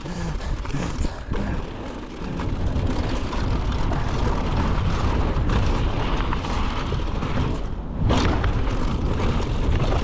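Wind rushing over a mountain biker's camera microphone, mixed with tyre rumble on a dirt trail, with a sudden jolt about eight seconds in.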